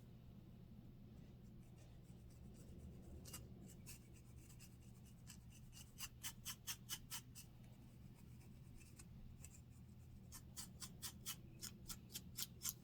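Close-up scratching of a dandruff-flaked scalp: quick, dry scraping strokes through the hair, in two runs of about four to five strokes a second, about six seconds in and again from about ten seconds in.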